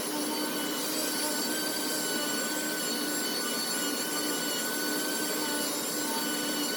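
Double-action sander running steadily, a constant whine over hiss, as it sands primer surfacer with 800-grit paper.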